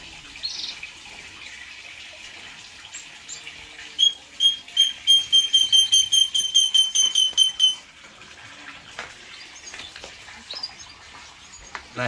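A small cage or aviary bird calling a fast, even run of identical high whistled notes, about five a second, for nearly four seconds starting about four seconds in; a few faint chirps come before it.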